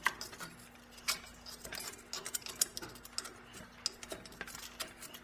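Irregular light clicks, taps and scrapes of metal tools and parts while crusted scale buildup is cleaned out of an F&T steam trap, over a faint steady hum.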